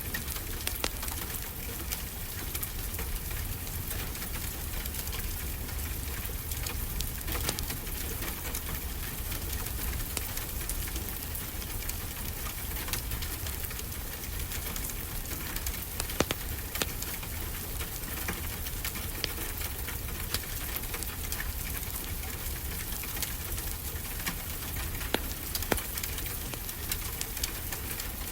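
Steady rain hiss with a wood fire crackling over it: scattered sharp pops and snaps, a few louder ones about 16 seconds in.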